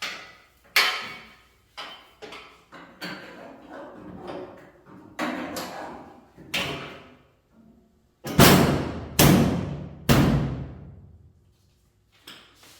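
A string of knocks and bangs, the three loudest coming close together about two thirds of the way through, each ringing out briefly.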